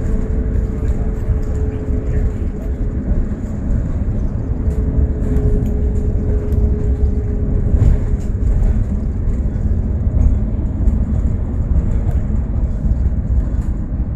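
Bus in motion: a steady low engine and road rumble, with a faint whine that fades in and out and scattered light rattles and clicks.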